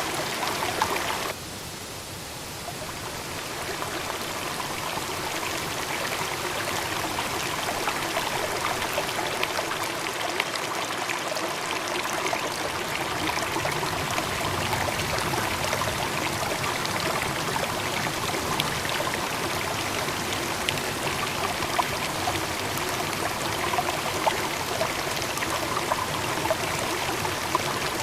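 Running water rushing steadily, like a stream or cascade, with a sudden drop in level about a second in that builds back up over the next couple of seconds.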